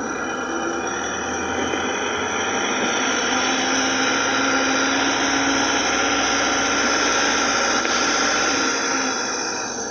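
A motor vehicle passing: its engine and road noise swell over several seconds, hold loudest in the middle, then fade near the end.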